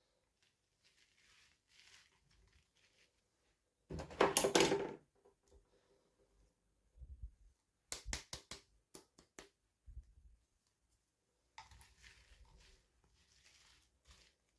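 Toy packaging being handled and opened by hand: faint rustling, a loud crinkling, tearing burst about four seconds in, then a quick run of sharp clicks about eight seconds in.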